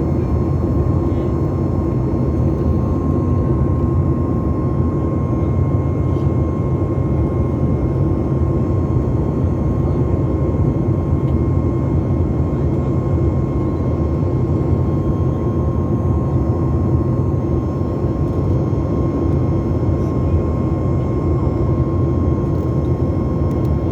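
Steady jet engine noise inside the cabin of a Boeing 737 MAX 8, its CFM LEAP-1B engines running evenly after takeoff: a deep, constant rumble with a thin steady whine above it.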